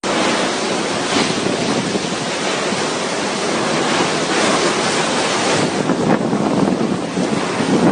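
Cyclone-force wind gusting hard and buffeting the microphone: a loud, steady rushing noise that swells in several gusts.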